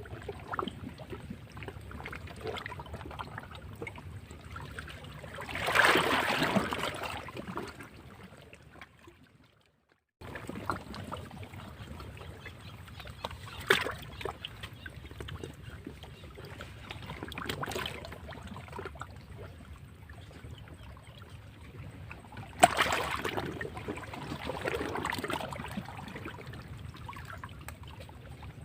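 Sea waves washing and splashing against rocks, with two louder breaking surges, about six seconds in and again a little after twenty seconds. The sound drops out briefly just before ten seconds in.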